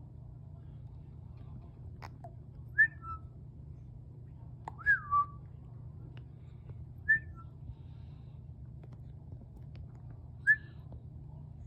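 Short, high, whistle-like squeaks, each sliding down in pitch: five of them, with two close together in the middle, over a steady low hum.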